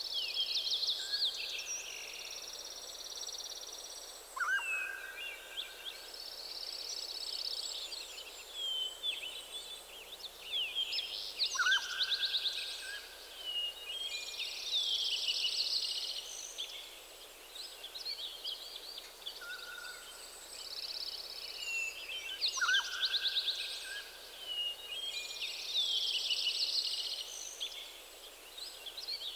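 Several songbirds singing together in a forest dawn chorus: busy high-pitched chirps and trills overlapping, with a lower falling whistled note recurring every several seconds.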